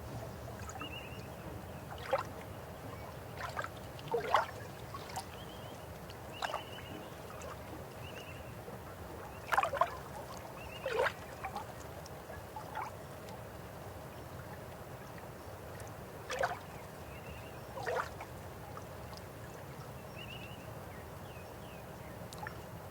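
A river flowing: a steady low rush with scattered sharp gurgles and plops of water, the loudest about four seconds in and around the middle. Faint short chirps repeat every second or two behind it.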